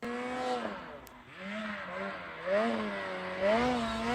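Snowmobile engine running, its revs rising and falling every second or so.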